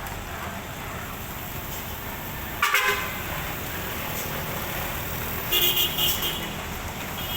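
A vehicle horn honking in two short blasts, about three seconds in and again about five and a half seconds in, over a steady engine rumble.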